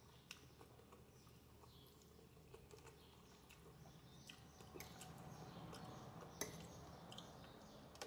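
Faint eating sounds: quiet chewing of spaghetti with a few soft clicks, and small birds chirping faintly in the background.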